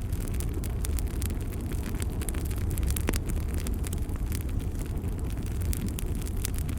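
Bonfire burning: a steady low rumble of flames with frequent sharp crackles and pops from the burning wood, one louder pop about three seconds in.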